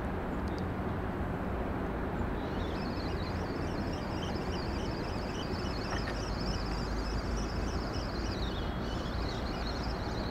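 Steady low rumble of distant traffic, with a small bird singing a fast, continuous twittering song from about two seconds in.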